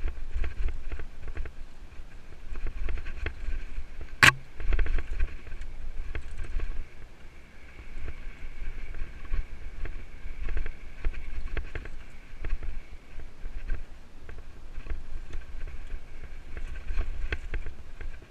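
A mountain bike rolling over a rough trail: the frame and parts rattle and click over the bumps while wind rumbles on the mounted camera's microphone. There is one sharp, loud knock about four seconds in.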